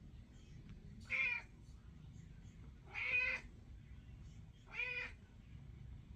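Three short, pitched animal calls about two seconds apart, each rising and falling in pitch.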